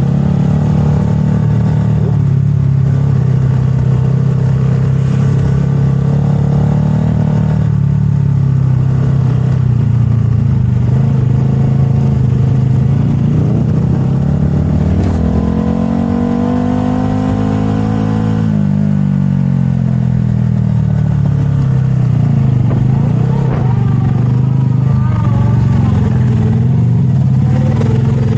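Motorcycle engine running at a steady pitch, revving up a little past halfway, holding for a couple of seconds, then dropping back.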